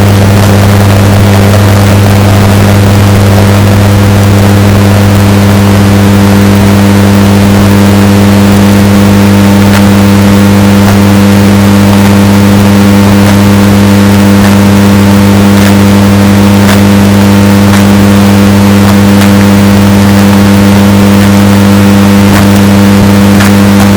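Washing machine running, heavily bass-boosted and distorted: a loud, steady low hum with a few faint ticks now and then.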